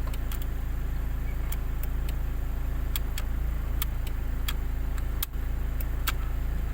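Hyundai Accent CRDi diesel engine idling steadily, with scattered sharp clicks over the hum; its CP1 high-pressure fuel pump is worn and, in the mechanic's view, will need a rebuild within about a year.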